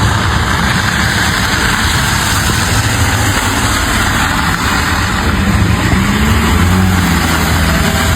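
A motor vehicle's engine running steadily under a loud, constant rush of noise. Its low hum rises a little past the middle and settles back near the end.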